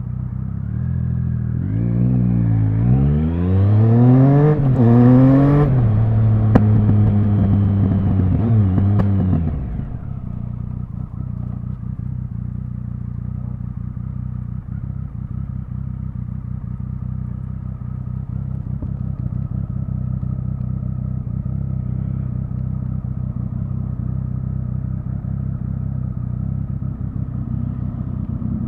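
Triumph Speed Triple 1050's inline three-cylinder engine accelerating through about three quick upshifts, its pitch climbing and dropping back with each shift, then holding speed. About ten seconds in the throttle closes and the engine runs steadily at low revs for the rest.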